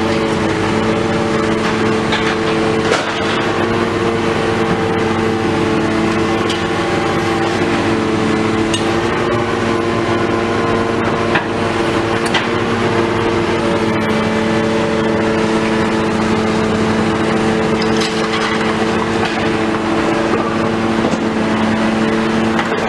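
Engine of a heavy demolition machine running steadily at constant revs, with a few sharp knocks and cracks of breaking material scattered through.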